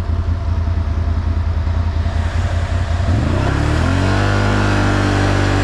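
ATV engine running at low revs with an uneven, fluttering note, then revving up about three seconds in and holding at a steady higher pitch as it accelerates.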